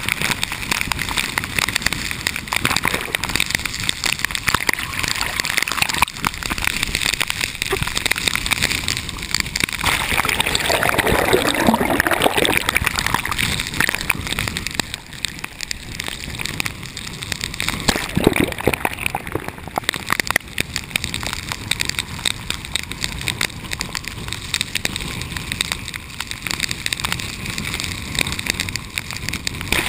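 Storm rain and water splashing and sloshing against a waterproof camera: a dense crackling wash of drops hitting the housing, with a louder gurgling, sloshing stretch about ten to thirteen seconds in.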